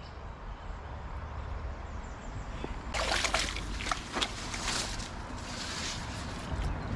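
Creek water running, then from about three seconds in irregular sloshing and splashing as someone wades across the shallow creek.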